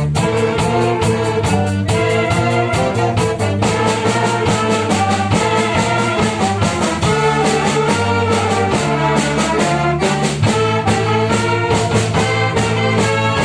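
Wind band playing at full volume: brass melody over held low brass notes, driven by a steady drum beat.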